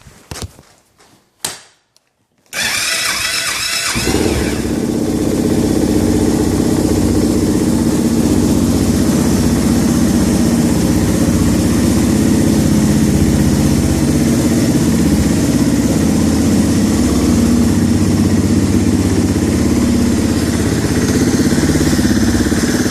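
A few clicks, then a Suzuki DR650's single-cylinder four-stroke engine is cranked on the electric starter about two and a half seconds in. It catches within about a second and a half and settles into a steady idle, freshly dosed with a PTFE oil treatment.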